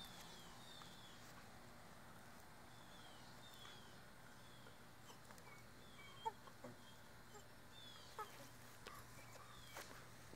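Near silence, with a bird chirping faintly: short falling chirps repeated about once or twice a second. A couple of brief soft clicks come about six and eight seconds in.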